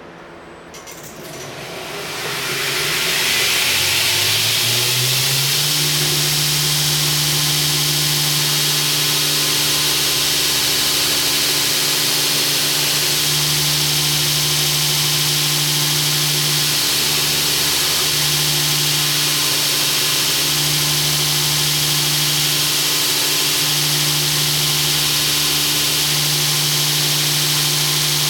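Belt grinder motor spinning up over about five seconds, its hum rising in pitch, then running steadily with the high hiss of the moving abrasive belt.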